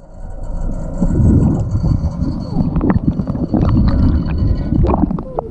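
Muffled underwater sound in a swimming pool, picked up by a camera held beneath the surface: a dense, low churning of moving water with scattered clicks.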